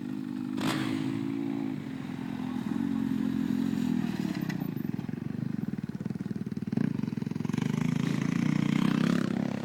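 Motocross bike engine being ridden, its note rising and falling as the throttle is opened and closed, loudest near the end, with a couple of brief sharp clacks.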